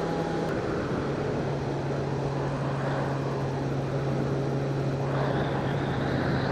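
Sport motorcycle engine running at a steady cruising speed under wind rush on the helmet camera; the engine note steps down to a slightly lower pitch about half a second in.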